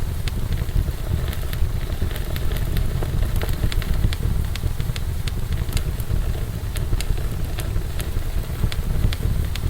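Fire in a fireplace crackling, with frequent sharp irregular pops over a steady low rumble.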